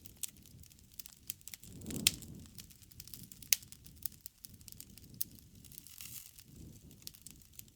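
Wood fire crackling: irregular sharp pops and snaps over a soft low rumble of burning, with the loudest pops about two and three and a half seconds in.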